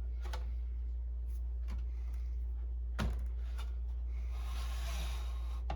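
Plastic parts of a disassembled inkjet printer being handled: a few faint clicks and a single knock about three seconds in, then a short scraping rustle near the end, over a steady low hum.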